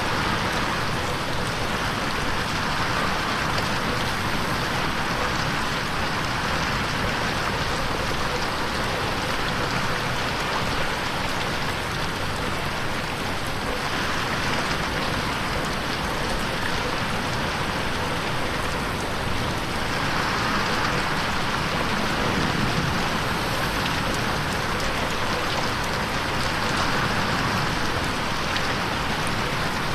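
Steady rain falling and pattering on a window, an even wash of sound that swells and eases a little every few seconds.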